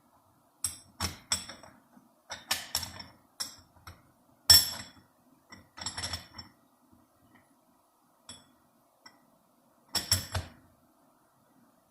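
Steel and friction clutch plates of a Dodge 46RE transmission clinking against each other as they are stacked into the clutch drum by hand: a dozen or so sharp metallic clinks with a short ring, coming irregularly, with a faint steady hum underneath.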